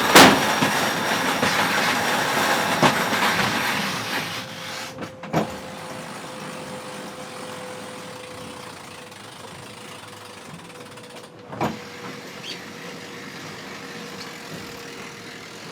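Onboard sound of a racing yacht under way: a steady rush of water and wind, louder for the first few seconds, with a few single knocks from the boat's gear. After about five seconds a quieter, steady hum of onboard machinery runs underneath.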